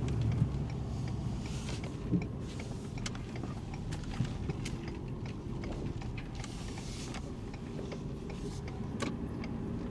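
Ford F-350 pickup carrying a slide-in camper, driving, heard from inside the cab: a steady low rumble of engine and road with scattered small clicks and rattles, and a couple of louder knocks in the first few seconds.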